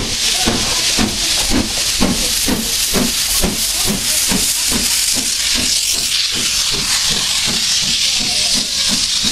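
Steam locomotive working, its exhaust beating steadily about two times a second under a constant hiss of steam.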